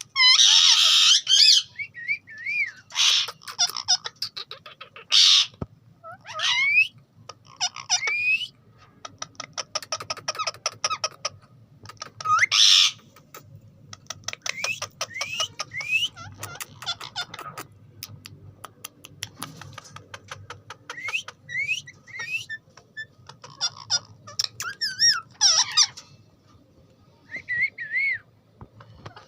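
Ringneck parakeet calling in a string of harsh squawks, short rising whistles and fast chattering runs, with pauses between calls.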